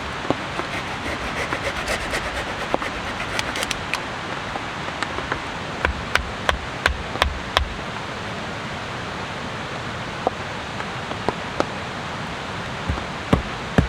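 Steady rain hiss with scattered sharp ticks and knocks, a run of louder ones about six to seven seconds in.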